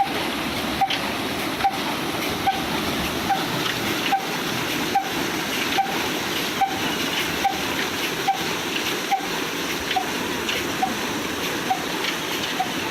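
Old 35 HP Ruston Hornsby diesel engine running slowly and steadily under load, its beats coming a little more than once a second, each with a short metallic ring, over a continuous rushing noise.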